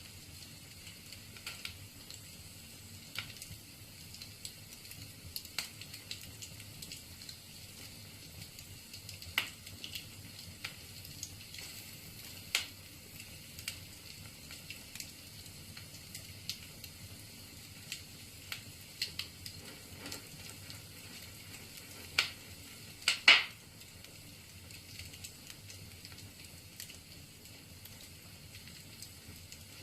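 Wood fire burning in a fireplace, crackling with irregular sharp pops over a faint steady hiss; a few pops stand out louder, the loudest about three quarters of the way through.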